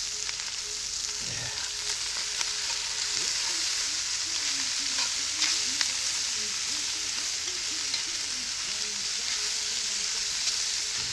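Chicken and chopped vegetables sizzling steadily in hot peanut oil in a Dutch oven over a campfire, with a few light clicks.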